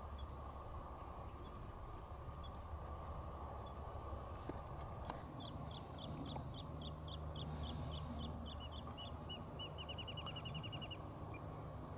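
A small songbird singing: a run of short, evenly spaced high notes, about three a second, that speeds up into a quick trill near the end, over a steady low background rumble.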